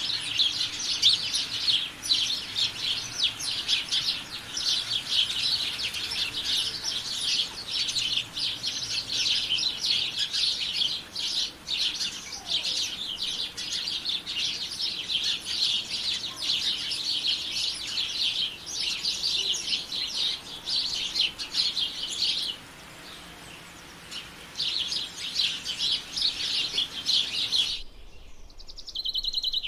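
A songbird singing a rapid, continuous twittering song, breaking off for a couple of seconds about three-quarters of the way through, then resuming and stopping near the end, where a different short call begins.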